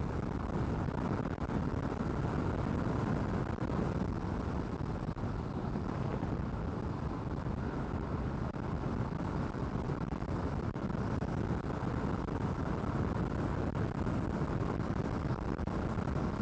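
Steady rush of wind and road noise from a Yamaha Aerox 155 scooter accelerating to about 110 km/h, heard through a microphone inside a full-face helmet with the visor closed.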